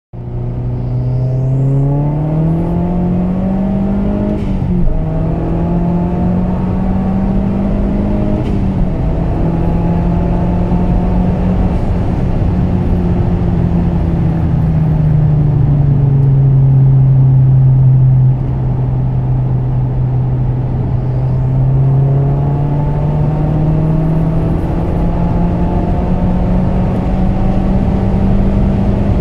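Turbocharged 2.3-litre four-cylinder of a tuned Mazda 3 MPS (about 368 hp) at full throttle, heard from inside the cabin. The revs climb to about 6,000 rpm and drop with quick upshifts about four and eight and a half seconds in, then the engine holds a high-speed drone in fifth gear. The pitch falls back for a few seconds and near the end climbs steadily again as the car pulls in fifth.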